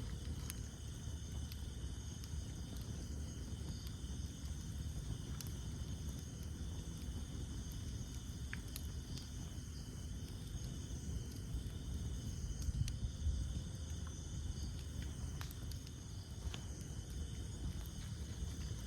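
Campfire burning: a low rumble of flames with scattered sharp crackles and pops from the burning wood, a little louder about two-thirds of the way through. Behind it runs a steady high chirring of night insects.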